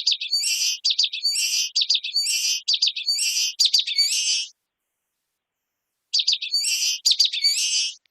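Common waxbill singing: phrases of short high notes, each run ending in a buzzy note, repeated for about four and a half seconds, then after a short pause one more such phrase.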